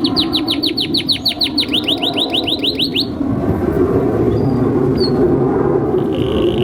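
Domestic canary singing: a fast run of rising whistled notes, about seven a second, that breaks off about three seconds in, over a steady low background noise. A fainter, even trill starts near the end.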